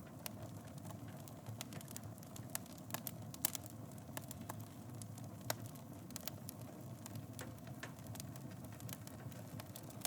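Wood fire in a fireplace crackling: irregular sharp pops and snaps over a steady low rumble of burning, with two louder pops around the middle.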